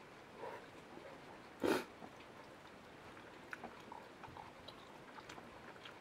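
A person eating stir-fried eggplant and green pepper: faint chewing with small scattered clicks. There is one short, loud burst of noise a little under two seconds in.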